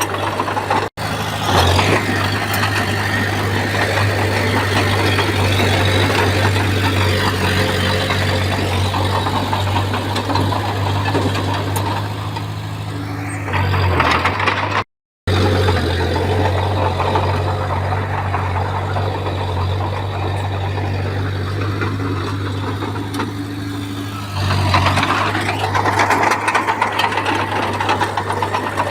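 Komatsu bulldozer's diesel engine running steadily under working load, with a deep low hum, swelling briefly twice as the load changes. The sound cuts out completely for a moment twice.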